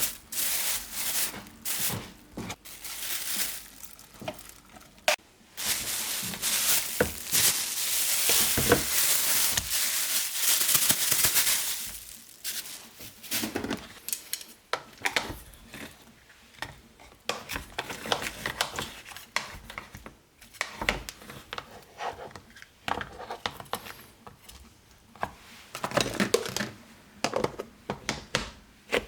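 Kitchen food-preparation sounds: rustling and crinkling, with many short clicks and clinks of utensils and dishes. The busiest, hiss-like rustling fills the first twelve seconds, then it thins to scattered knocks and clinks.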